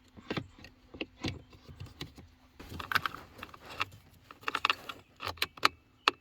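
Hands installing a replacement blend door actuator under a car's dash: irregular plastic clicks, taps and small rattles as the part and its screws are fitted, bunched in two flurries partway through.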